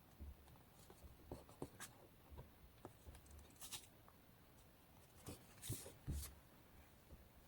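Faint, scattered crinkles, taps and rustles of paper and collage materials being handled on a desk, with a few soft thumps.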